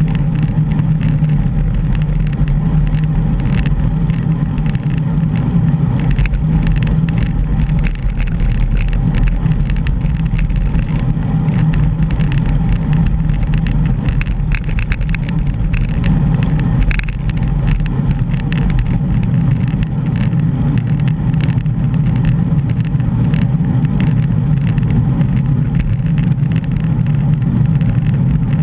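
Steady rumble of wind and road noise on a moving bicycle-mounted GoPro's microphone, with scattered small clicks and rattles.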